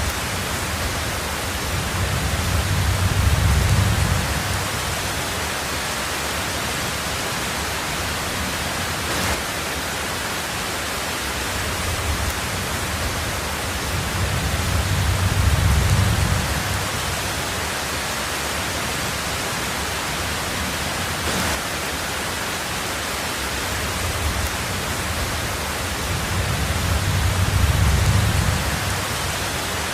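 Heavy rain drumming on a tin roof, a steady even hiss, with three low rumbles of thunder that swell and fade about twelve seconds apart.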